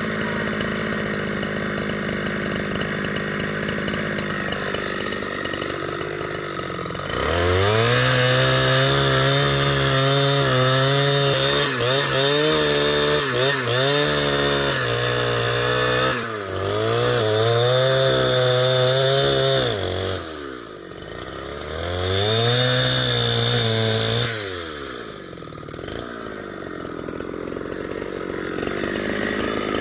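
Two-stroke chainsaw idling, then opened up to full throttle about seven seconds in and held there in three long spells with short drops in between, as it cuts through timber; it falls back to idle near the end.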